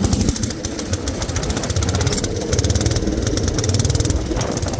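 Allis Chalmers B210 garden tractor's single-cylinder engine running at raised throttle with the tiller attachment lowered, a fast, steady run of firing pulses.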